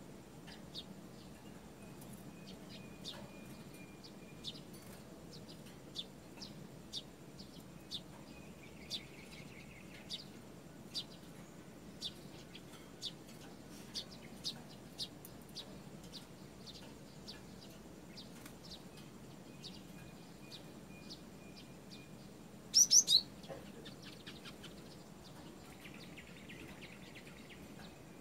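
Caged cinereous tit (gelatik batu) calling, short sharp high chips about once a second. A loud burst of three notes comes about 23 s in, and brief buzzy rasps come twice.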